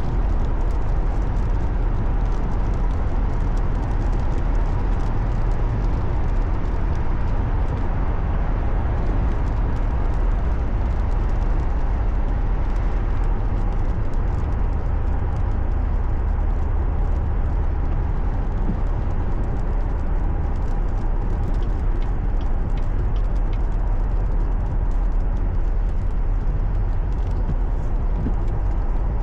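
A car driving at a steady speed: a constant deep rumble of road and engine noise with an even tyre hiss.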